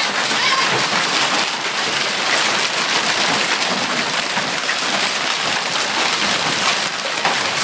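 Hailstorm with heavy rain: a dense, steady pelting of hail and rain on the ground and surfaces, with countless small impacts.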